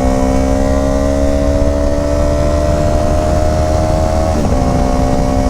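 Motorcycle engine running with its pitch rising slowly, then a brief dip about four seconds in before it settles steady again, over a heavy low rumble.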